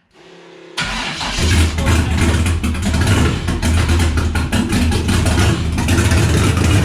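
LS-swapped Fox-body Mustang's V8 cranking briefly and firing up under a second in, then running loud and steady at idle.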